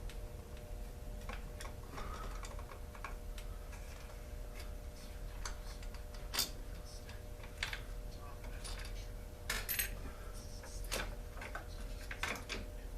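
Scattered clicks and metallic clinks of tools and small metal parts being handled during a chainsaw teardown, the sharpest about six and nine and a half seconds in, over a faint steady hum.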